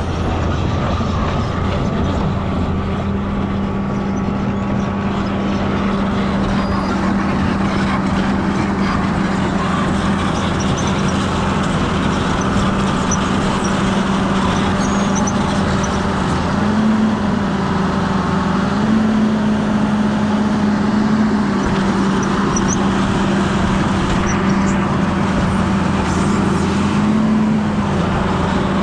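Excavator's diesel engine running steadily, with a few brief rises in pitch about halfway through and near the end.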